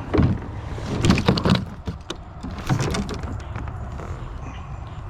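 Clunks and rattles of gear knocking against a plastic kayak hull, in three short clusters, over a steady low rumble.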